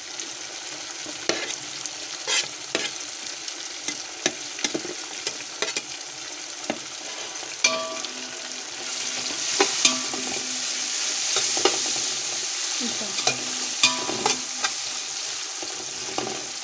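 Sliced onions and whole green chillies frying in hot oil in a pan with a steady sizzle. The pan is stirred throughout, with sharp clicks and short scrapes of the utensil against it. The sizzle swells for a few seconds past the middle.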